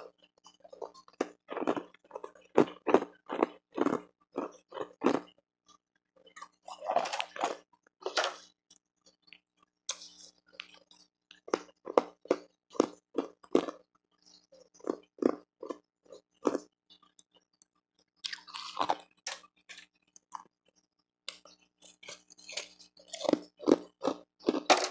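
Ice being crunched and chewed close to the microphone: runs of sharp crunches about two a second, with short pauses between the runs.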